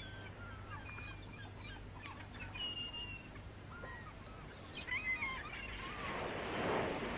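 Birds chirping: short, gliding calls scattered through the first few seconds, then a rush of noise swells and fades near the end.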